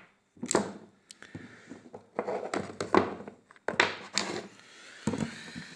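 A series of short clunks and clicks from handling small metal parts on a workbench: a used steering-rack bushing being swapped for the next one and a dial bore gauge being fitted into its bore.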